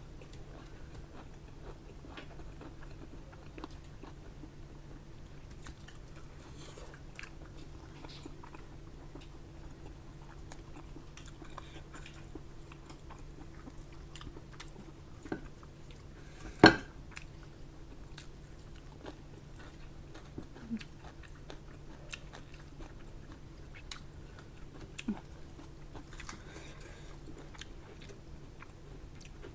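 Close-miked chewing and biting of a mouthful of rice and pork with bamboo shoot, with soft wet mouth clicks. One sharp, loud click stands out about two-thirds of the way through, over a faint steady hum.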